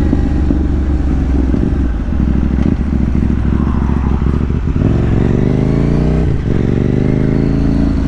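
KTM 790 Duke's parallel-twin engine with a decat and aftermarket exhaust, heard from the bike while riding. The note is low and uneven for the first few seconds, then rises steadily under acceleration. It dips briefly at a gear change about six seconds in and climbs again.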